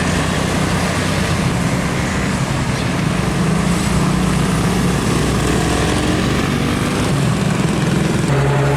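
Heavy trucks passing on a highway: a continuous mix of diesel engine drone and tyre noise. Near the end a steadier engine hum takes over.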